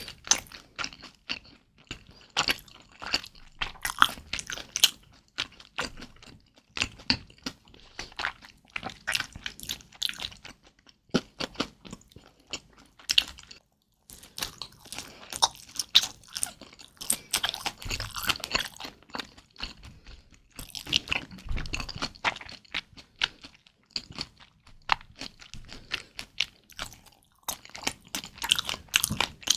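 Close-miked chewing of kimchi dumplings: a steady run of crunchy bites and moist, clicking mouth sounds, broken by a short pause about halfway through.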